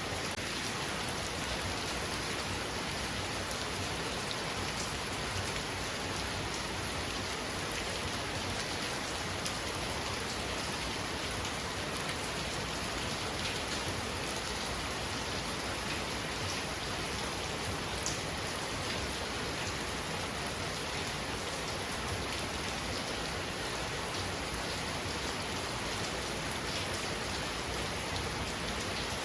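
Heavy rain falling steadily, a dense even hiss with fine drop ticks on surfaces.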